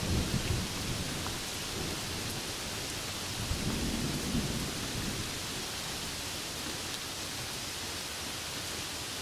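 Steady rain with two low rolls of thunder, one right at the start and a second about three and a half seconds in, lasting over a second.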